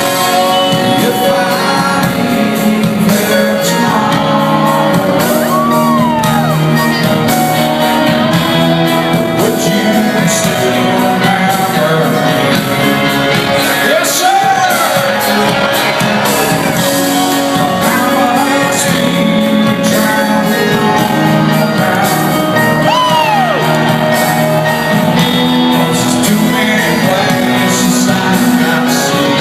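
Rock music with singing: electric guitar notes that bend up and slide back down over sustained chords.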